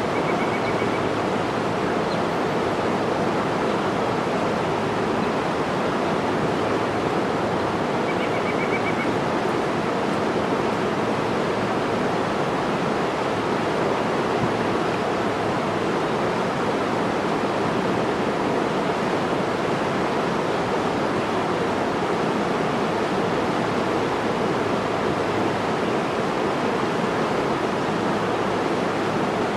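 Steady rushing water, a continuous even roar with no rhythm or breaks.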